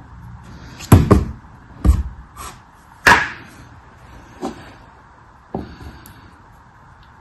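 A series of about seven sharp knocks and thuds at uneven intervals, the loudest about a second in, then fainter ones further apart.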